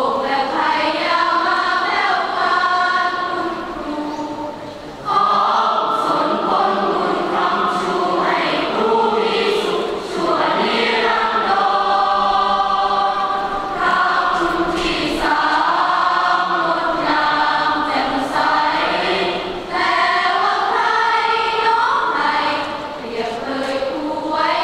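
School choir singing in harmony, with several voice parts holding long notes together. The singing is softer for the first few seconds and swells louder from about five seconds in.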